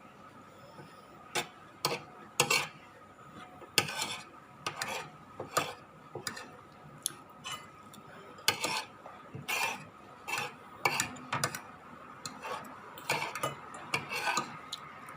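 Spoon and fork clinking and scraping against a plate during a meal: many irregular, sharp clicks, a few of them louder.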